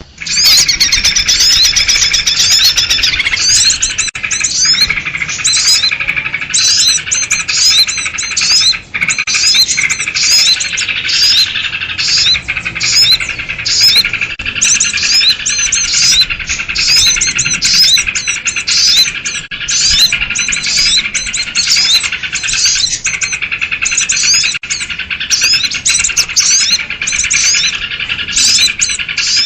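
Sooty-headed bulbuls (kutilang) in agitated, noisy chatter: a dense, unbroken stream of rapid short chirps. This is the alarm-like excited calling used as a lure to draw in small birds.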